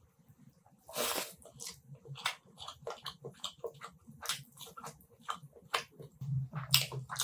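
Close-miked eating: biting and chewing food, with many irregular sharp mouth clicks and smacks and one longer wet smear about a second in.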